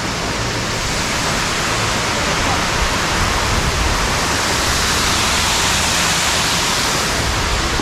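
Rushing water of a creek cascade or small waterfall: a steady, even rush.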